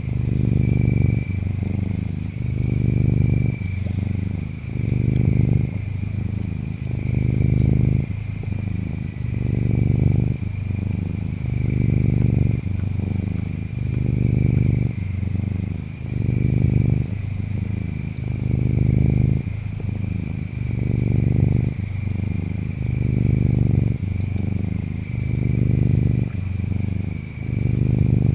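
Domestic cat purring closely, a low rumble that swells and fades with each breath about every two seconds. Behind it, insects chirp steadily, with high trilling bursts every few seconds.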